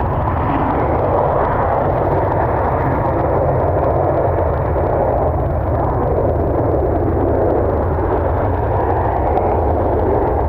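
Steady roar of airliner jet engines mixed with a low wind rumble on the microphone.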